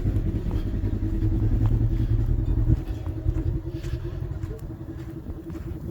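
Polaris RZR side-by-side's engine running with a steady low rumble that drops off suddenly about three seconds in, then carries on more quietly.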